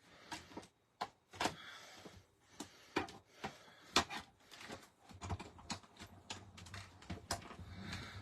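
Irregular clicks and taps of plastic plates and an embossing folder being handled and stacked on a hand-cranked cut-and-emboss machine. From about five seconds in, a low rumble runs under quicker clicks.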